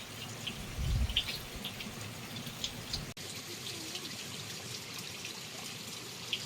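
Small creek waterfall trickling steadily, with scattered high ticks of dripping water and a brief low rumble about a second in.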